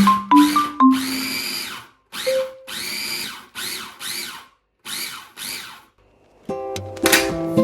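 Cuisinart mini food chopper run in about six short pulses, its motor whining up and falling back each time. Marimba music plays at the start and acoustic guitar music comes in near the end.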